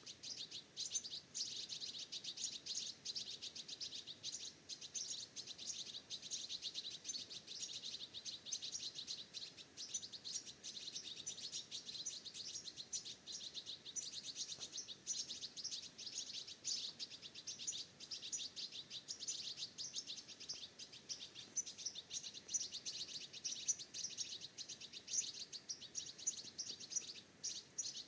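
Many small birds chirping in a dense, continuous chorus of rapid overlapping high chirps.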